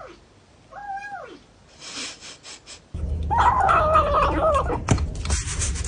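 Hungry cats meowing: a single meow about a second in, then from about halfway several louder, overlapping, wavering meows and yowls.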